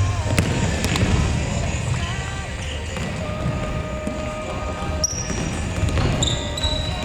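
Futsal being played in a gymnasium: the ball knocking off feet and the floor a few times, with short high squeaks, over the echoing rumble of a large hall.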